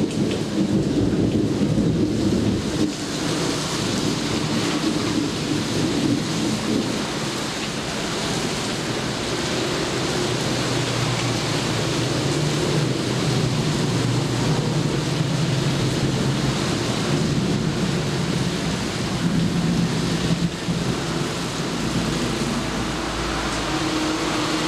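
Thunderstorm: steady heavy rain with low thunder rumbling on and off beneath it.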